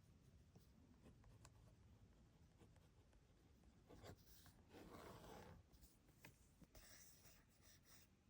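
Faint scratching of a pen or pencil drawing on sketchbook paper, with light taps and one longer, louder stroke about five seconds in.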